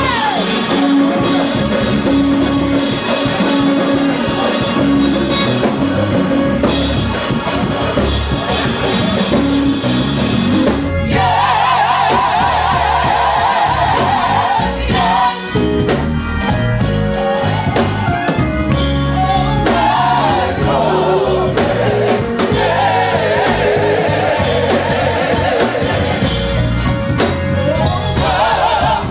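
Live gospel music: voices singing over a band with drums, loud and unbroken throughout.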